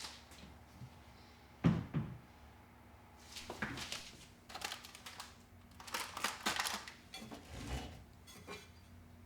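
Dishes and utensils clattering and clinking as they are handled in a kitchen, in several short flurries, with one heavier knock about two seconds in.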